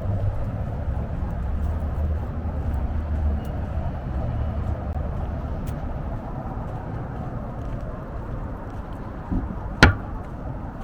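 Street ambience: the low rumble of a passing road vehicle, easing off over several seconds, then one sharp click or knock near the end.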